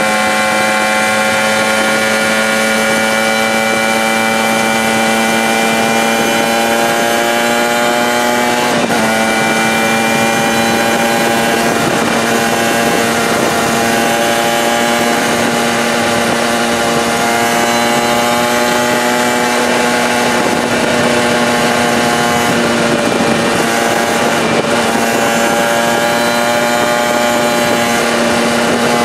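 Fully performance-modified 2003 Aprilia RS125's 125 cc two-stroke single engine running hard under way at high revs, its note breaking and shifting pitch briefly about nine seconds in and dipping again later.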